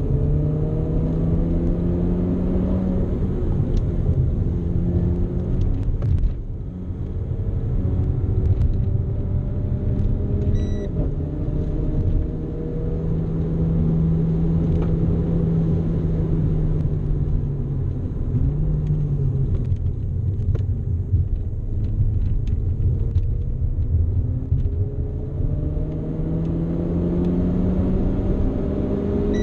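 Renault Clio RS's 1.6-litre turbocharged four-cylinder engine under hard acceleration, heard from inside the cabin: the engine note climbs and drops back several times as the EDC dual-clutch gearbox shifts, with a longer steady stretch in the middle, over a constant road rumble.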